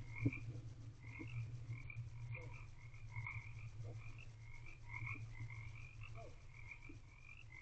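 A faint chorus of frogs calling: short croaking calls repeat about two to three times a second, over a steady low hum.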